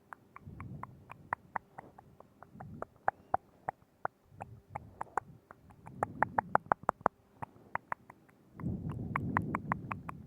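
Wet mouth sounds right against the microphone: quick tongue and lip clicks, several a second, over stretches of low muffled rumbling that swell up, loudest near the end.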